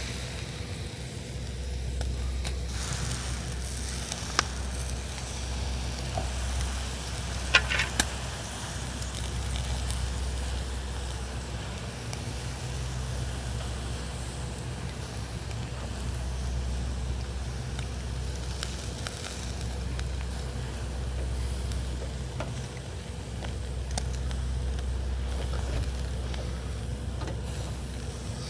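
Pacific saury sizzling as it grills over a campfire, with a few sharp crackles from the fire, over a steady low rumble.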